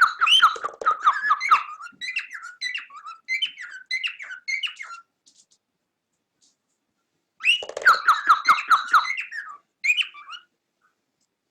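Cockatiel chirping and warbling in quick, high, repeated notes, in two bouts: one of about five seconds, then a second starting about two seconds later.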